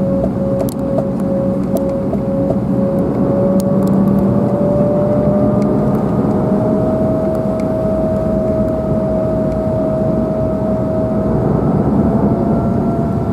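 Cabin noise of an Embraer 195's turbofan engines running at high power, with a whine that climbs slowly in pitch over the seconds. For the first two and a half seconds the wheels thump regularly, about three times a second, and then the thumping stops.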